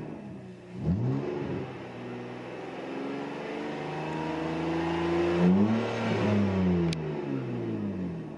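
BMW Z4 straight-six exhaust with the rear muffler deleted (straight pipe). A quick rev blip comes about a second in, then the revs climb steadily to a peak about two-thirds of the way through and fall away.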